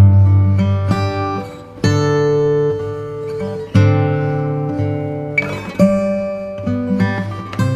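Background music: acoustic guitar playing sustained chords and plucked notes.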